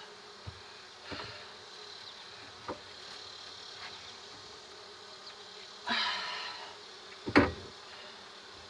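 Honeybees buzzing steadily in an open hive, with a louder pitched buzz swelling up about six seconds in. A sharp knock a little later is the loudest sound, with a few soft clicks earlier.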